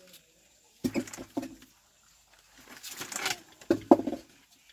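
A few short bird calls in two groups, about a second in and again around three to four seconds in.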